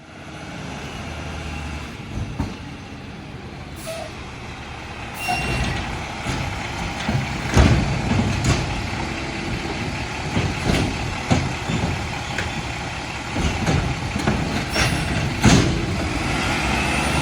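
Mack LR McNeilus automated side-loader garbage truck running, with a run of clanks and bangs from about five seconds in.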